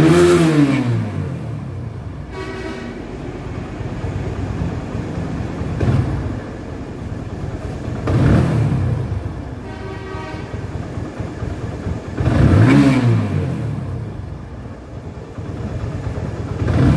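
Freshly rebuilt TVS Apache RTR 150 single-cylinder four-stroke engine idling and being revved in short throttle blips, each rising and falling back to idle. The mechanic judges it to be running perfectly.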